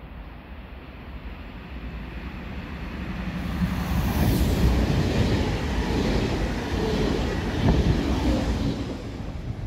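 DB ICE T electric multiple unit passing close along the platform track. Its rumble and wheel-on-rail noise build, stay loud for several seconds as the cars go by, then fade near the end.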